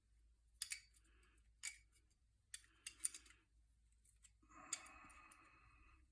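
Small metal parts and tools handled on a workbench: a few sharp clicks and clinks, then about a second and a half of scraping rub starting past the middle.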